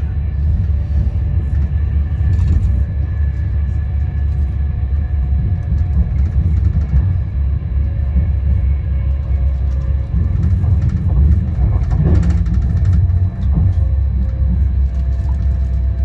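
Steady low rumble of a passenger train in motion, with faint steady whining tones over it.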